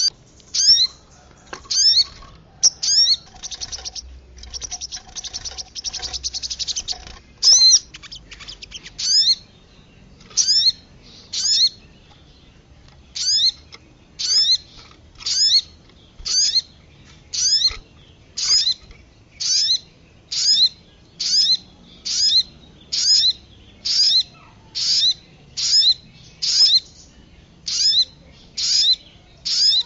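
Bird-lure recording of sogon calls mixed with kemade calls: sharp, high, downward-slurred calls repeated about once a second, with a fast chattering trill lasting about three seconds starting about four seconds in.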